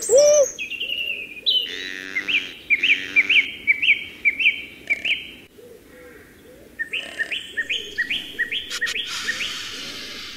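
Wild bird calls: two runs of quick, repeated chirps, each note a short upward flick, a few a second. A loud short animal call comes right at the start, and a steady hiss of outdoor ambience near the end.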